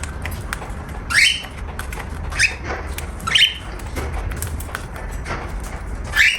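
Cockatiel giving short, sharply rising calls, four of them, two close together in the middle.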